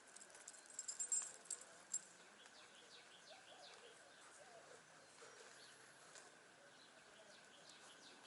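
Faint chirps and short calls of small birds, with a few sharp high ticks in the first two seconds, over quiet background hiss.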